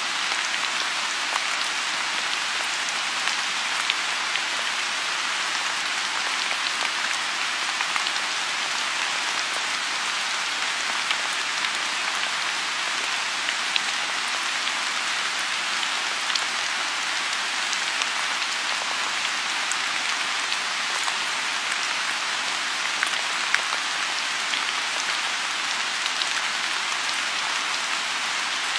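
Steady rain falling on a lotus pond: a dense, even hiss dotted with sharper individual drop ticks.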